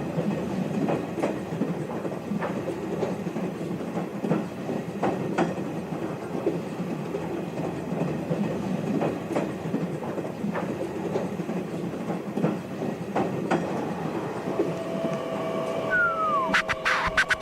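Train running on rails: a steady low rumble with sharp clicks from the wheels every second or so. Near the end a steady tone and a falling sweep come in, followed by a quick run of sharp clicks.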